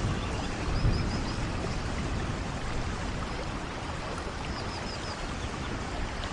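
Steady heavy rain, with a low rumble about a second in. Faint short high chirps come twice.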